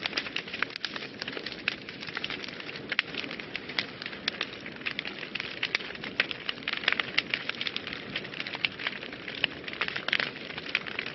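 Wood fire burning in a fireplace, crackling and popping irregularly over a steady hiss of flames.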